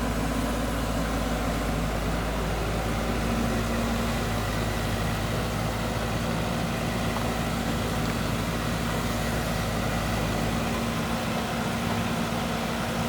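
Heavy machinery engine running steadily at a constant note. Its tone shifts slightly about three seconds in.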